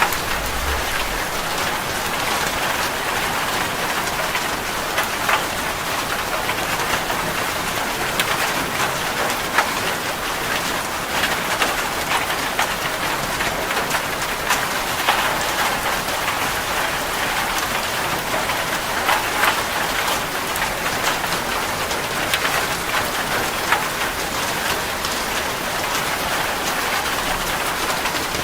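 Steady rain falling on a surface, with many individual drops audible.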